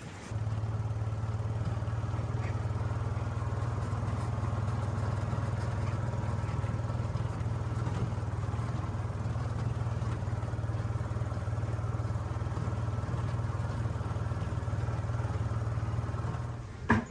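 An engine running steadily at one low pitch. It starts abruptly just after the start and cuts off abruptly near the end.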